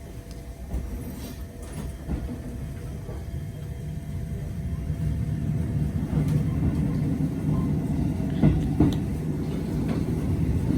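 Local electric train pulling away and gathering speed: its running rumble builds steadily louder, with a few short knocks in the second half.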